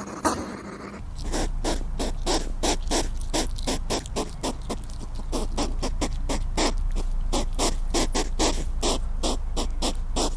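Hedgehog snuffling in quick, short puffs, about four a second, over a steady low hum.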